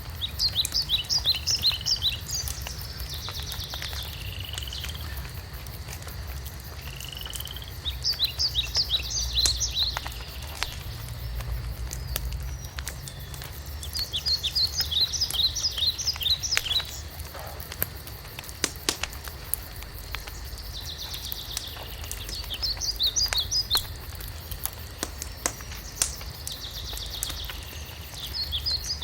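A songbird sings a short, rapid series of high notes, repeated about every six or seven seconds. Underneath, a wood fire crackles with scattered sharp pops and a low rumble.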